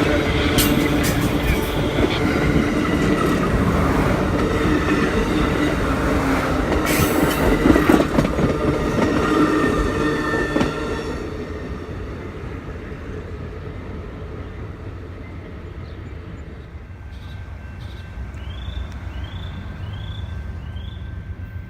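A train passing close by, its wheels rumbling and squealing on the rails. It drops away sharply about halfway through and fades to a distant rumble.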